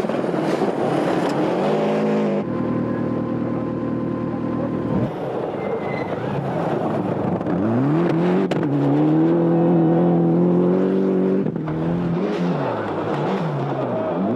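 Rally car engines revving hard: the pitch climbs, holds high at full throttle and drops between gears, across several abruptly cut clips.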